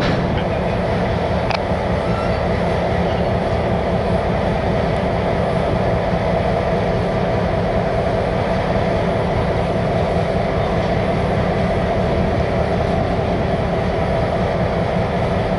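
Steady rumble of a CN freight train, with an even hum running under it.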